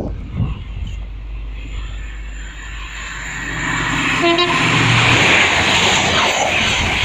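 High-speed LNER express train approaching and passing through the station at speed without stopping, growing to a loud rush of wheels and air. A brief horn note sounds about four seconds in.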